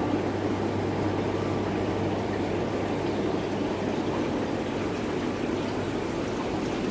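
Steady water bubbling and running from aquarium tank aeration and filtration, over a steady low hum.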